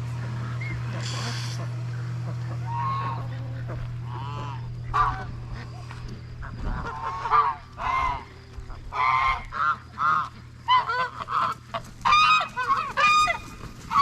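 Geese honking, a few separate calls starting a few seconds in and then a quick run of honks over the last few seconds.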